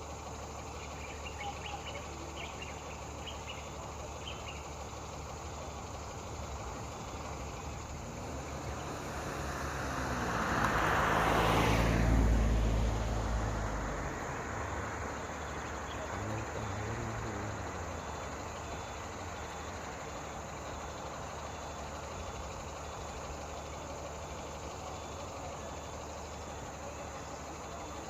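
A motor vehicle passes close by, its noise swelling over several seconds to a peak and fading, the pitch falling as it goes past. Under it runs a steady low hum, with insects chirping in the first few seconds.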